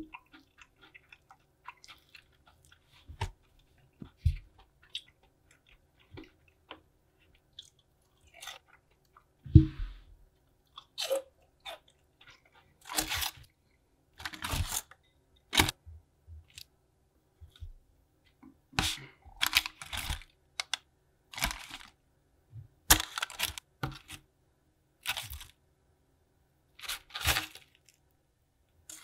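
Crisp-battered Korean fried chicken being bitten and chewed in short crunches. The crunches are sparse at first, then come every second or two through the second half.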